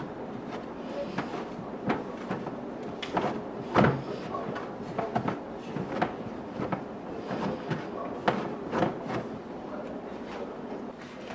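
Repeated clicks and knocks of plastic storage containers and refrigerator drawers being handled and set in place, the loudest knock a little under four seconds in.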